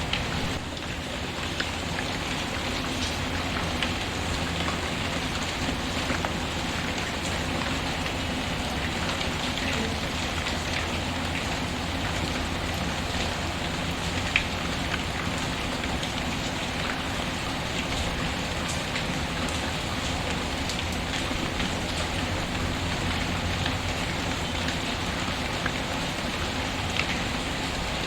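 Steady rain falling, with occasional sharp pops from a crackling wood fire; the loudest pop comes about halfway through.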